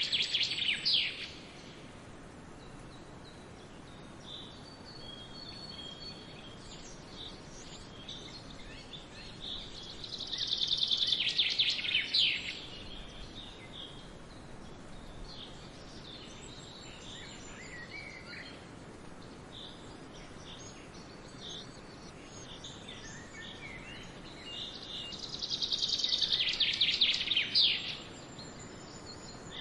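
Songbirds singing: a loud rapid high trill lasting two to three seconds comes three times, roughly fourteen seconds apart, with scattered short high chirps between, over a steady faint outdoor hiss.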